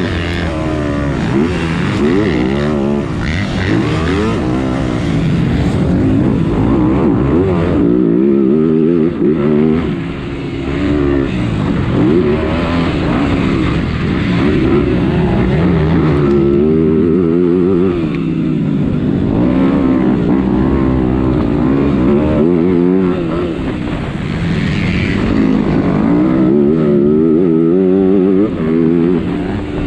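Motocross bike engine heard close up from a camera on the bike, revving up and falling back over and over as the rider works the throttle through the gears, with brief drops in level a few times when the throttle is shut.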